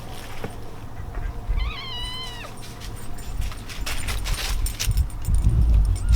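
A cat meowing once, a single high call about a second long starting about a second and a half in. Low rumbling and knocks, loudest near the end.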